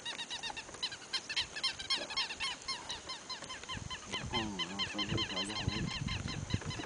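Wild birds calling in fast, overlapping runs of short chirping notes, several a second. A lower, wavering call joins about four seconds in and lasts a second or so.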